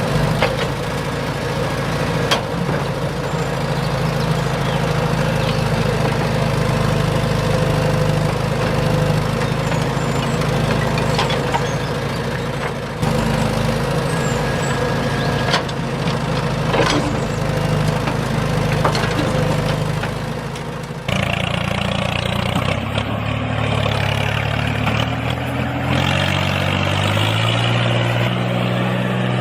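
Backhoe loader's diesel engine running steadily, with scattered sharp knocks over it. About two thirds of the way in the sound changes abruptly to an engine whose pitch rises in steps, as when revving up.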